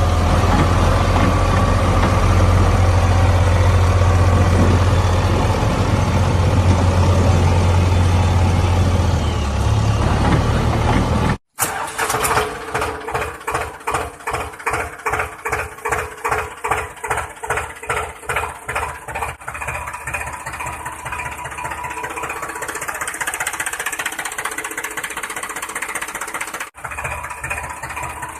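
Engine or motor running with a steady deep hum. It cuts off abruptly about eleven seconds in and is replaced by a pulsing engine sound at roughly two beats a second, which settles into a steadier run later.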